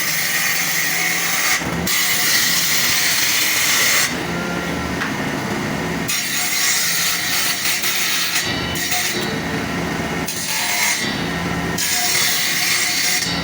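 A power tool working wood in passes of a few seconds, a bright hissing cut or rub alternating with the tool's steady motor hum between passes.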